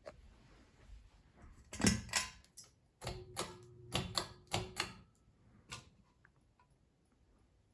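A run of sharp mechanical clicks and knocks, about a dozen over roughly three seconds, with a faint steady hum under the middle ones, then one last click.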